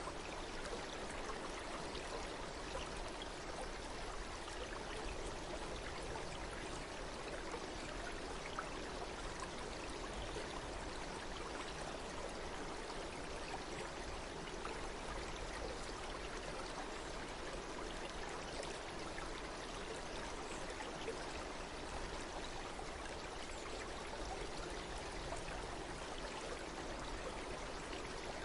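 Running water of a stream, a steady, even rush with no change.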